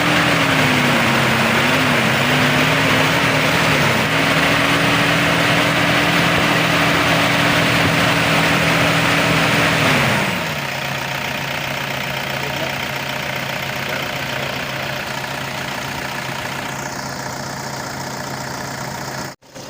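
Toyota 2KD four-cylinder turbodiesel engine running on a test run after its timing belt tensioner was replaced, to check that the knocking is gone. Its speed wavers slightly for the first few seconds, holds steady, then drops back to a lower, steady idle about ten seconds in.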